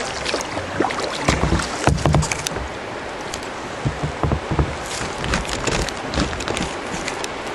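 Kayak on a river: paddle strokes splashing in the water, over a steady rush of water, with a few low thumps.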